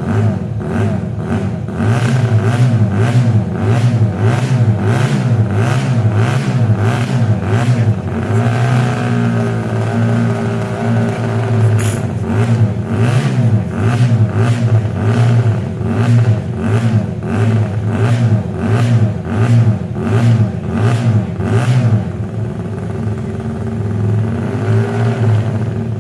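Honda RC143 125cc twin-cylinder racing motorcycle engine running with the throttle blipped over and over, about twice a second. It is held at a steadier, higher speed for a few seconds, then blipped again, and settles to a lower speed near the end.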